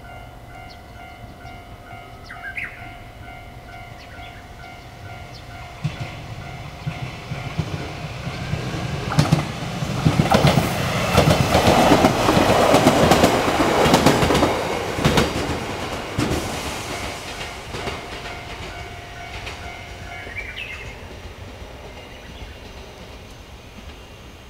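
JR Kyushu 815 series electric commuter train approaching and passing close by. Its wheels clack over the rail joints in quick succession at the loudest point, about 10 to 15 seconds in, and the sound then fades as it moves off.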